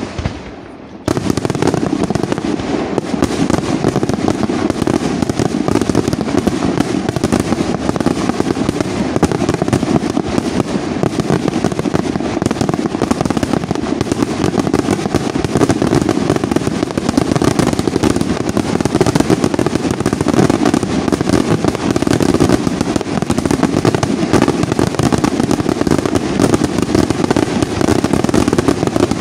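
Aerial fireworks shells bursting in a dense, continuous barrage: a rapid, unbroken run of bangs and crackles that sets in fully about a second in.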